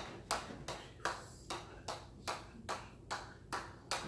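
A hammer striking an anvil in a steady rhythm, about two and a half blows a second, each blow a sharp metallic ping that rings briefly.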